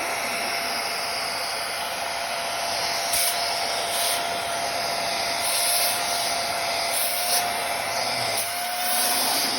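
Hoover CleanSlate XL portable upholstery cleaner running on suction, extracting dirty cleaning solution from a fabric car seat. The motor runs with a steady whine under a rushing hiss that surges several times as the nozzle is worked across the fabric.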